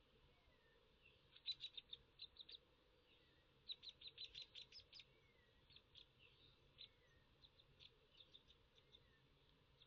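Small songbirds chirping softly: two quick runs of short, high chirps in the first half, then scattered single chirps, with a few soft falling whistles between them.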